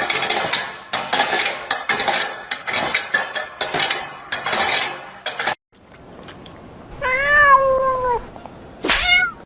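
Rapid clattering and rattling of hard objects for about five and a half seconds. After a break, a cat gives one long meow that falls slightly at the end, then a short rising meow near the end.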